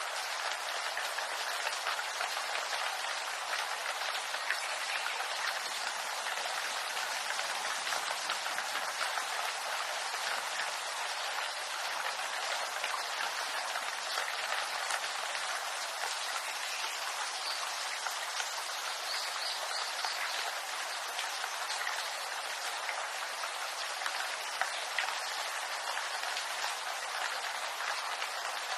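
Rain falling steadily on bamboo leaves: a dense, even patter of drops.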